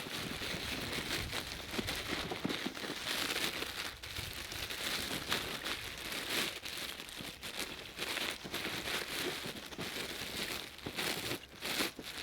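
Continuous crinkling and tearing of dry tinder being handled and broken up by hand, with many small crackles.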